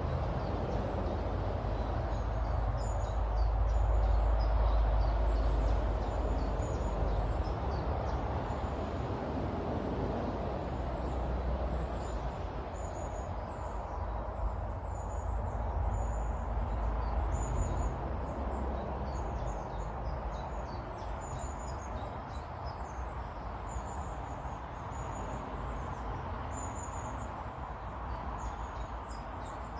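Small birds chirping, short high calls repeated throughout, over a steady low rumble that swells a few seconds in.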